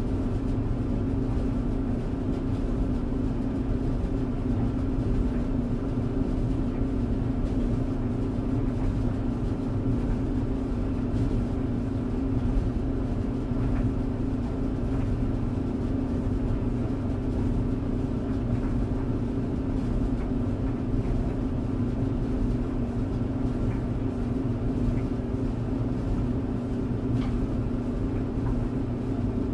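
Tumble dryer running steadily: a constant low hum and rumble, with a few faint light ticks now and then.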